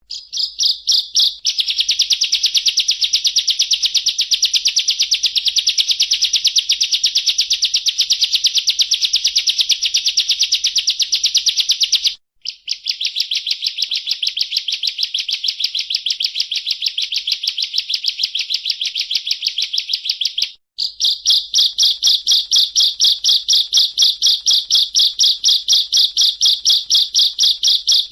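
Ciblek prinia singing a continuous, very rapid drill-like trill of high notes, broken by two brief pauses about 12 and 21 seconds in.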